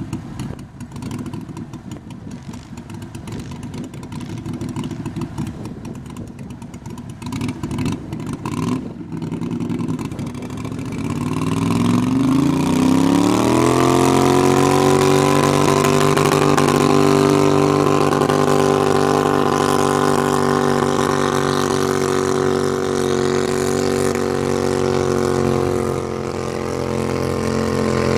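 Garden tractor engine running unevenly at low speed, then revving up about halfway through and holding steady at high revs, as in a pull run.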